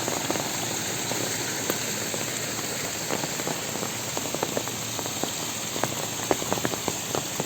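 Heavy rain falling steadily. Large single drops tap close by, more often in the second half.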